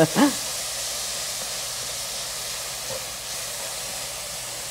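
Diced chicken frying in oil in a hot cast iron skillet: a steady sizzle.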